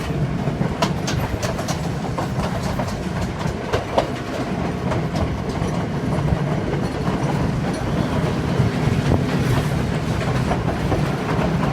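Intercity express train hauled by an EMD Class M2c diesel locomotive running at speed: wheels clicking over the rail joints over a steady low rumble and drone.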